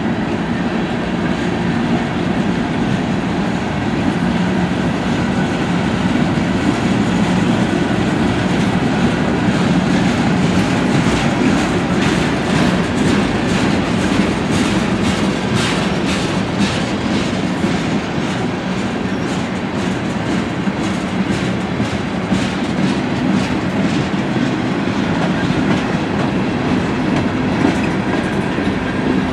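Train cars rolling past steadily, wheels clicking over the rail joints in an even rhythm that is clearest in the middle.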